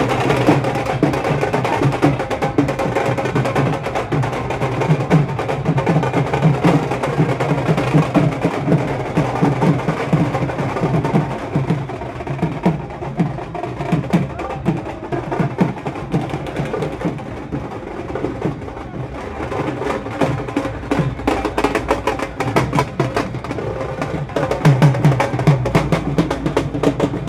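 Loud percussion-led music with fast, dense drumming.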